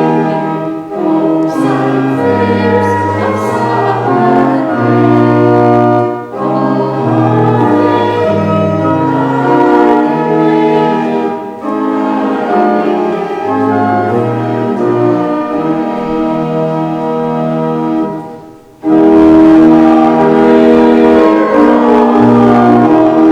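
Church organ playing closing music in sustained chords over a moving bass line. It breaks off briefly near the end, then comes back in with a loud full chord.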